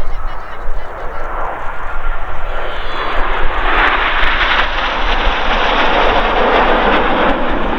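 BAE Hawk T1 jets of the Red Arrows flying past, their Adour turbofans giving a broad jet noise that grows louder about three seconds in and stays loud to the end.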